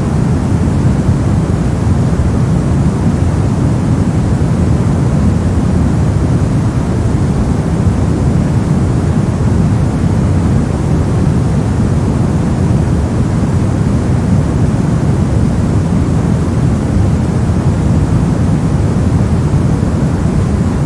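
Steady, unbroken noise track sold as white noise for sleep, heavy in the bass so that it sounds like a deep, even rush. There are no changes or events.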